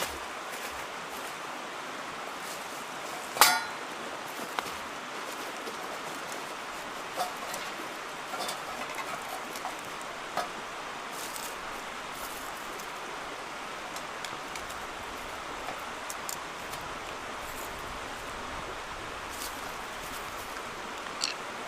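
Steady rush of a mountain stream, with scattered sharp clicks and ticks over it, the loudest about three and a half seconds in.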